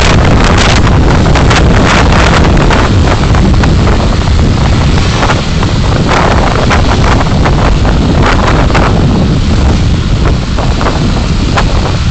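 Driving noise picked up by a dashcam microphone: a loud, steady rumble of road and wind noise, heavy in the low end, with many short clicks and rattles scattered through it.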